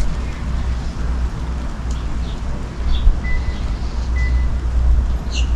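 Steady rainstorm noise with a low rumble underneath, and a few faint bird chirps; a quick run of small-bird chirps starts right at the end.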